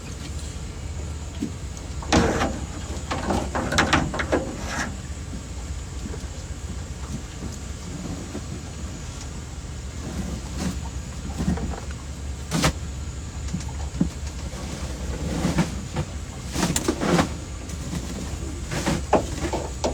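Knocks, scrapes and rustles of catfish and gear being handled in a boat, over a steady low rumble.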